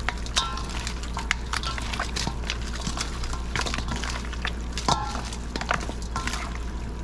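Hands mixing raw chicken pieces in a wet soy and green-seasoning marinade: a run of irregular squelching clicks and slaps, with a few short high chirps and a steady low hum underneath.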